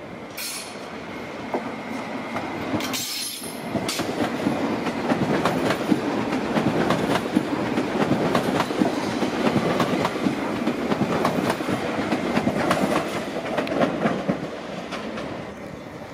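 A BLS MIKA electric multiple unit (Stadler FLIRT, class RABe 528) rolls slowly past, its wheels knocking rhythmically over rail joints and points. Two brief high-pitched bursts come in the first three seconds.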